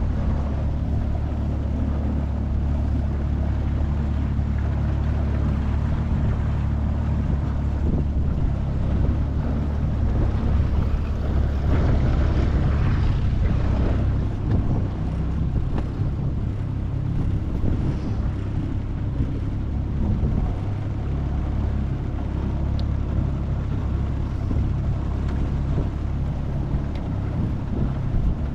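25 hp Mercury four-stroke outboard running steadily as the jon boat moves along, with a low even engine hum and wind on the microphone.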